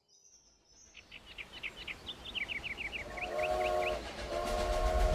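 Birds chirping in quick repeated notes, then a train whistle sounding a chord in two blasts over the low rumble of a train, which grows steadily louder as it approaches.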